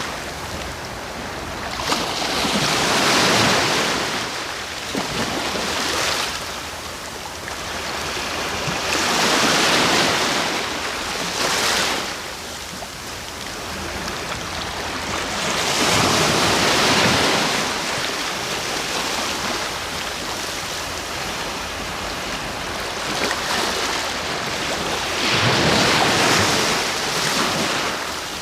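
Sea waves breaking on the shore, a steady rushing wash that swells into a loud break about every seven seconds, four times.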